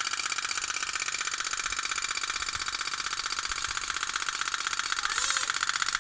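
Kapal otok-otok (pop-pop toy steam boat) running: its flame-heated boiler gives a rapid, even, steady popping.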